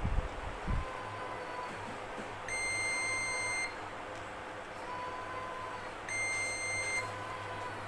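Two steady, high-pitched electronic beeps, each lasting about a second, typical of a multimeter's continuity tester sounding as the probes find a connection while tracing lines on a TV panel. A steady low hum runs underneath.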